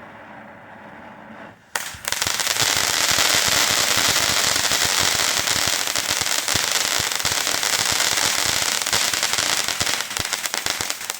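Phantom Fireworks Vibrant Voltage consumer fountain, a soft hiss that about two seconds in turns suddenly into loud, dense crackling, with countless rapid tiny pops running on without a break.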